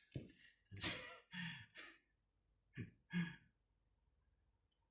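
A man's breathy exhalations and sighs: about six short puffs of breath in the first three and a half seconds, then near quiet.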